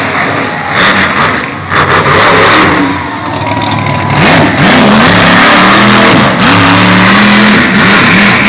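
Monster truck engine revving hard, its pitch rising and falling several times in quick succession over the second half, very loud.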